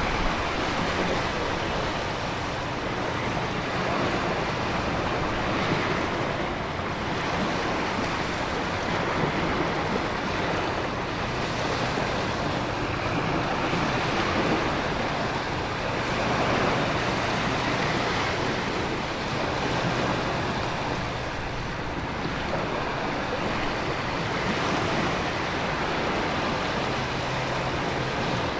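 Storm ambience of heavy rain and crashing ocean surf with wind: a dense, steady rush that swells and eases gently every few seconds.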